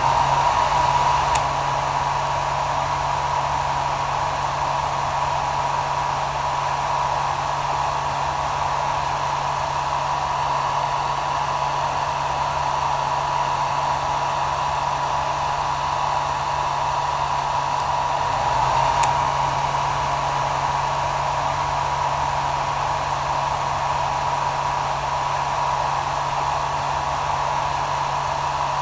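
Hair dryer running steadily: an even rush of blown air with a steady tone in it and a low hum beneath. A faint tick sounds twice, once shortly after the start and once about two-thirds of the way through.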